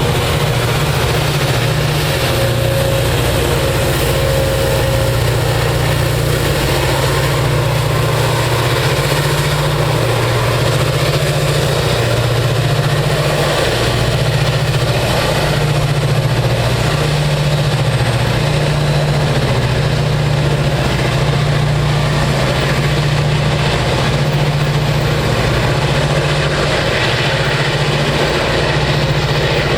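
A freight train's diesel locomotives running as it passes, a loud steady engine drone with a low hum that wavers slightly in pitch.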